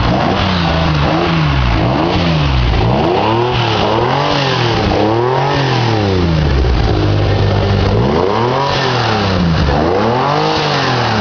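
Maserati Merak's V6 engine revved repeatedly while standing still, its pitch climbing and dropping back about six times over an idle.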